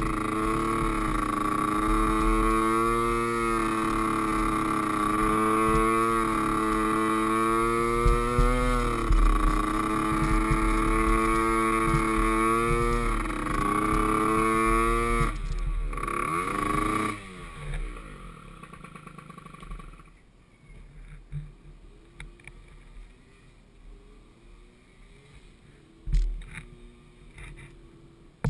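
Small pee wee ATV engine running at varying throttle, its pitch rising and falling, then winding down and stopping about 17 seconds in. Only faint scattered knocks follow.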